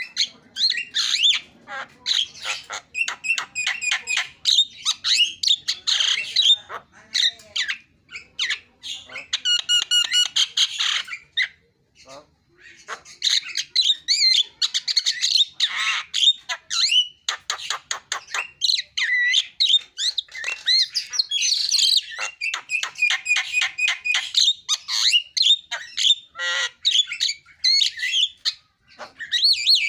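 Javan myna singing actively: a varied, chattering song of harsh squawks, rapid clicking runs and whistled notes, with short pauses about 8 and 12 seconds in.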